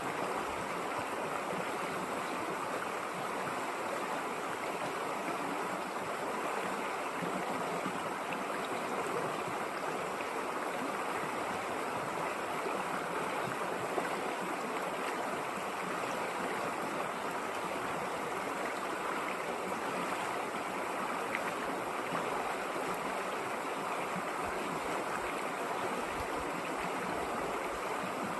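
River water flowing steadily over rocks, an even rushing and babbling with no let-up. One faint click about halfway through.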